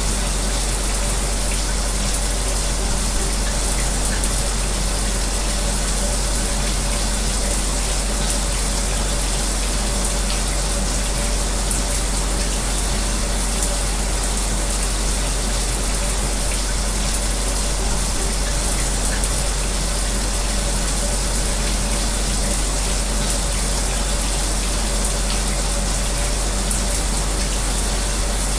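Shower spray running steadily, a constant rush of water with a fan's low hum beneath it.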